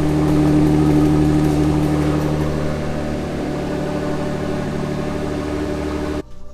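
Jeep Wrangler JL engine idling steadily, cutting off abruptly near the end.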